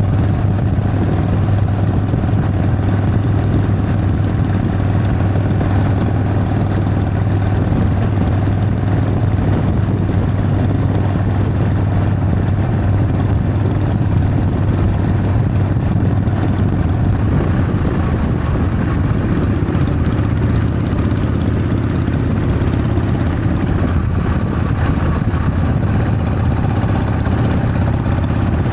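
Harley-Davidson Sportster's air-cooled V-twin engine running steadily with a deep, even drone.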